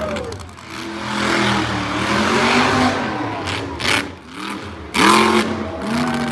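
Monster truck engine revving in repeated bursts, its pitch rising and falling, over a wash of arena noise, with a sharp jump in loudness about five seconds in.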